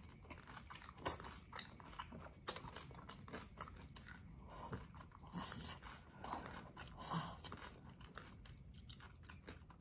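A person chewing a mouthful of rice eaten by hand, close to the microphone: faint, irregular wet clicks and smacks of the mouth.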